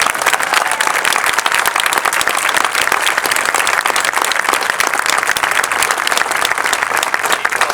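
Audience applauding and cheering, steady and loud, as the senior banner is unveiled.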